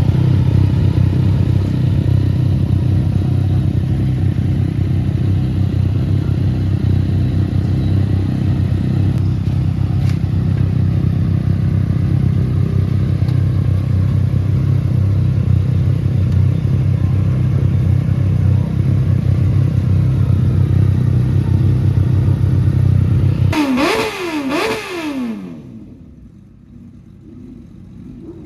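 Sport motorcycle engine running steadily close by, loud and pulsing. About three-quarters of the way through it is revved twice in quick blips, each rising and falling in pitch, and then the sound drops away.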